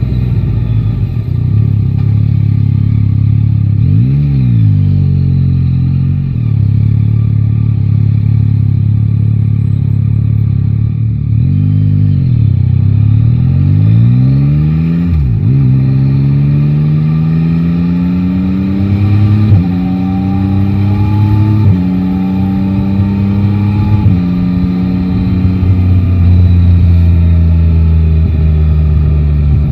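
Yamaha Tracer 9 GT motorcycle's inline-three engine heard from the saddle: running steadily with its pitch swinging up and down twice in the first half, then pulling away and climbing through three upshifts, with a sudden drop at each gear change, before holding a steady cruise.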